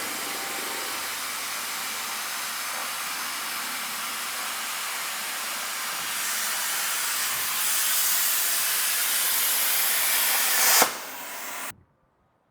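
CNC plasma cutter torch cutting steel plate, giving a steady, loud hiss. The hiss grows louder about six seconds in and again about eight seconds in. Near the end there is a sharp snap, a short lower hiss, then it cuts off abruptly.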